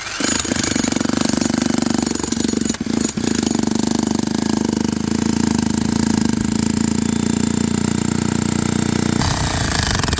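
A small engine running at a steady speed with a fast, even beat, cutting off about nine seconds in.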